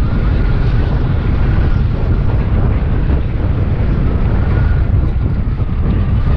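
Wind buffeting the microphone on a moving scooter, a steady rumble, with a faint thin whine from the scooter underneath.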